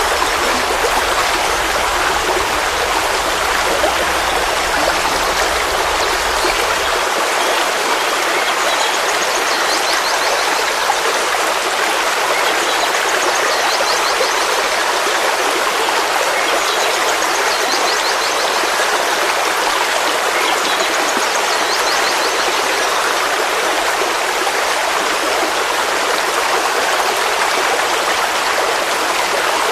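Forest stream flowing, a steady rush of running water. Faint high chirps recur every four seconds or so.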